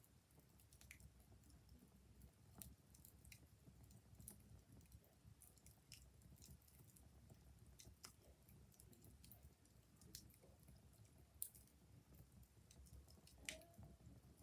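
Quiet wood fire crackling, with faint irregular pops and snaps over a low steady rumble.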